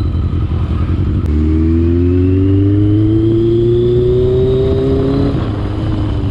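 Yamaha XJ650's inline-four engine through an aftermarket M4 exhaust, running low, then pulling up through the revs from about a second in with a slowly rising pitch that eases off near the end. The exhaust is very loud.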